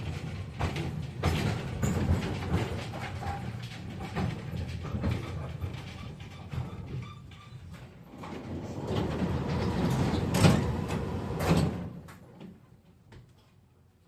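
KTM-5M3 tram running on rails, a steady rumble with frequent knocks and clatter from wheels and car body, and two loud knocks shortly before the noise dies away. About twelve seconds in the sound falls away sharply to quiet, as the tram comes to a halt at a stop.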